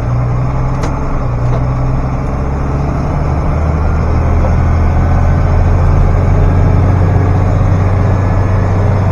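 Farm tractor engine running steadily with a low drone, getting a little louder about halfway through.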